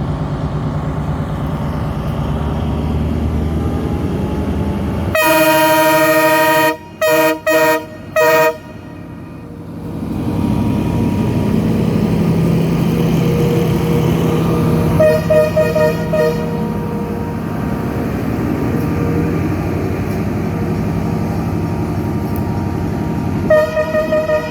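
Diesel locomotive horn sounding one long blast about five seconds in, then three short blasts, over the steady running of the locomotive's diesel engine. The engine grows louder as the train pulls out, with more short horn toots around the middle and again near the end.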